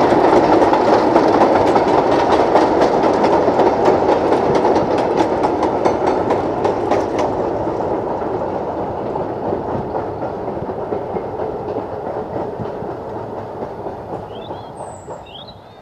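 Ffestiniog Railway narrow-gauge train running past, its wheels clattering on the rails, then fading steadily into the distance.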